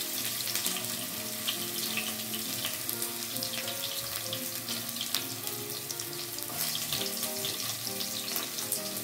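Sliced shallots and garlic sizzling and crackling in a little hot oil in a wok, with soft background music underneath.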